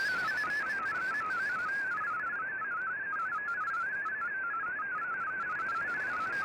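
MFSK digital data signal from a shortwave broadcast, heard through a communications receiver: a single tone hopping rapidly between set pitches, over steady band hiss.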